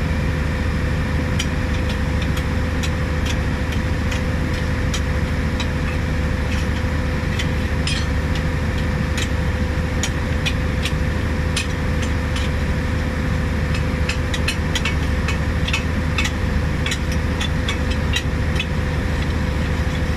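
A large engine running steadily at a constant speed, with many irregular sharp metallic clicks and ticks over it.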